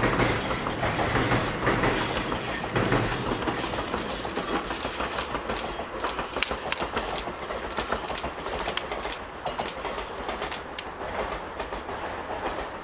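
Train running across a long bridge and moving away, its wheels clicking over the rail joints while the rumble slowly fades.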